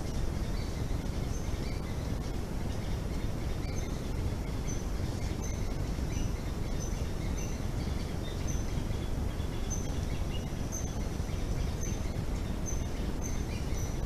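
Forest ambience: a bird repeats short, high chirps about once a second over a steady low background rumble of noise.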